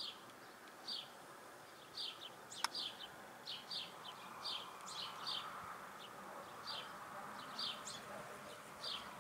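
Small birds chirping repeatedly, short high chirps one or two a second, over a faint steady hiss. A single sharp click about a third of the way in.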